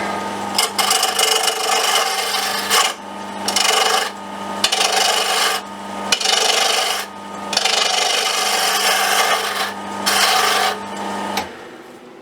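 Wood lathe running with a steady hum while a tool is pressed against the spinning wooden popper blank to shape it down, giving about six rough scraping passes of a second or two each. The lathe motor stops near the end.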